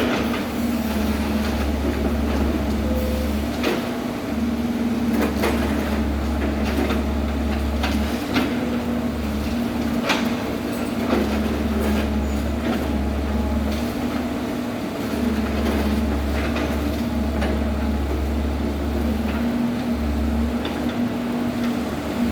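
Heavy construction machinery running, a steady diesel drone with scattered clanks and knocks throughout.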